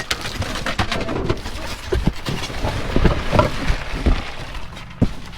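Rummaging and climbing about in a dumpster: irregular knocks, scrapes and rustles of trash being shifted and stepped on.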